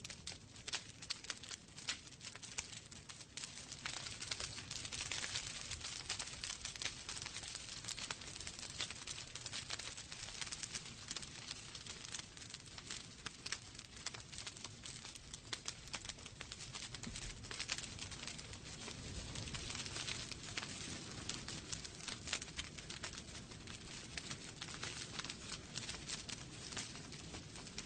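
Wood fire burning in a fireplace, crackling with many sharp pops over a steady hiss.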